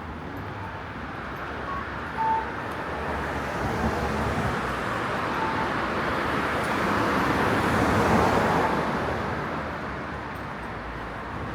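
A road vehicle passing, its noise swelling to a peak about eight seconds in and then fading away.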